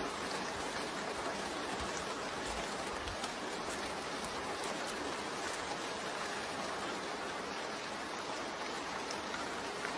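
Steady hiss of rain and running water, with a few faint ticks.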